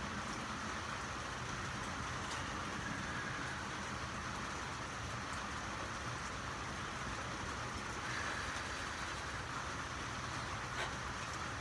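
Steady rain falling on a car, an even hiss with a few faint drop ticks.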